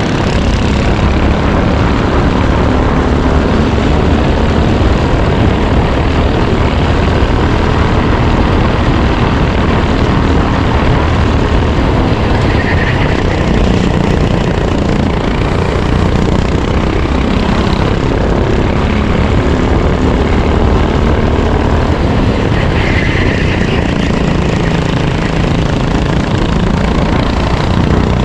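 Racing kart engine running hard through a lap, recorded onboard, its pitch rising and falling with throttle, under heavy wind and road noise.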